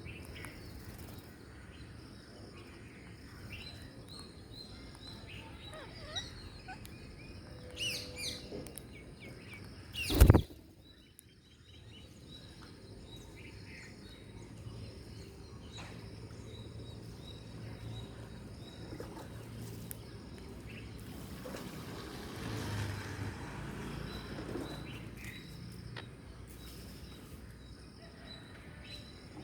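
Birds chirping now and then over a steady high-pitched outdoor background, with one loud, sharp knock about ten seconds in.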